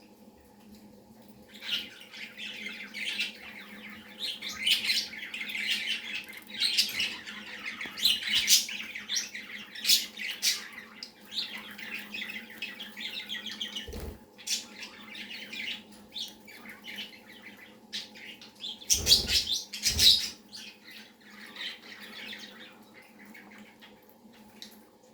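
Budgerigar chattering and warbling with sharp chirps and squawks, nearly nonstop after the first second or two. A few dull bumps come with it about two-thirds of the way through, over a steady low hum.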